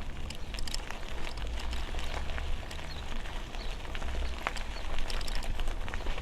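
Wind rumbling on the microphone while riding a bicycle, with many scattered light clicks and ticks.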